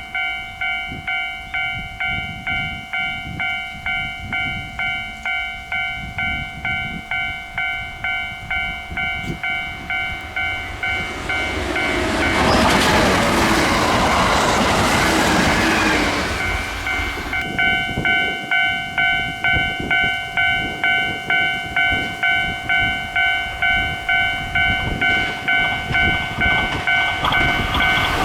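Level crossing warning bell ringing about twice a second while a Kintetsu train passes, its wheel clatter and running noise drowning the bell for about five seconds around the middle. Near the end the noise of another train starts to build.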